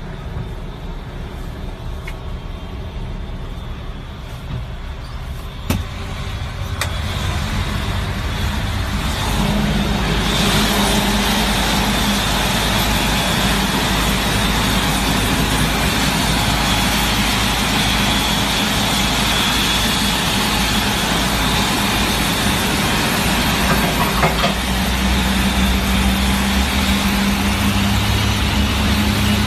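Heavy engine noise on the apron during an Airbus A380 pushback: a steady low rumble, one sharp knock about six seconds in, then louder from about ten seconds in, with a high whine over the rumble.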